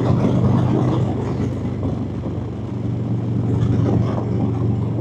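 Harley-Davidson Road Glide's V-twin engine running steadily while riding, a constant low hum under a steady rush of road and air noise.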